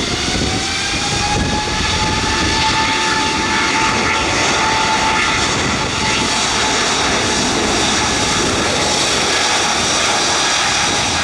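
Boeing 777-200ER jet engines spooling up to takeoff thrust, heard inside the cabin: a whine that rises over the first second or two and then holds steady over a loud rumble during the takeoff roll.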